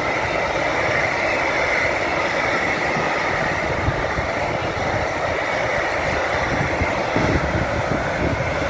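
Train running past close by, a steady rumble and rushing noise of wheels on rail.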